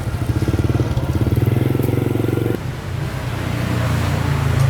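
A small engine running with a fast, even pulsing beat. About two and a half seconds in, the sound changes abruptly to a rougher, less regular running.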